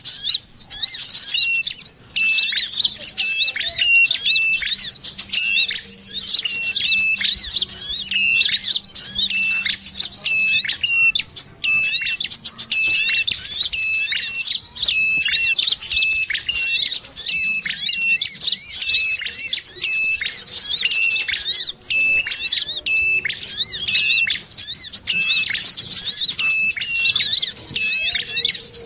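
Bird-luring call recording: dense, continuous high twittering chatter of small birds, the sogon mix of tailorbird and sunbird calls, over a short lower note repeating at a steady pace.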